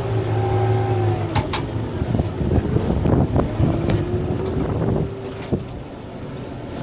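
Kubota M6-141 tractor's diesel engine working under load, its pitch sagging and recovering as the grapple works. Sharp snaps and crackling through the middle come from the working grapple.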